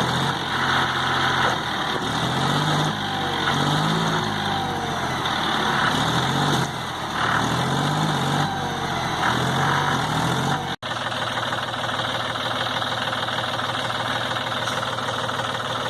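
Tractor's diesel engine revving up and falling back again and again, as when trying to drive out of deep mud. About eleven seconds in there is an abrupt cut, and the engine then runs at a steady speed.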